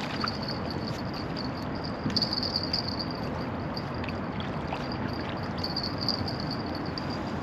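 Riverside ambience: a steady rushing noise with an insect trilling continuously at a high pitch, pulsing slightly, and a few faint ticks.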